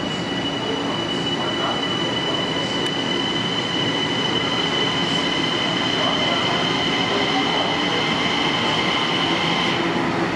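Long Island Rail Road M9 electric multiple-unit train pulling slowly into an underground station platform. A steady rumble grows gently louder, under a constant high-pitched squeal that cuts off near the end.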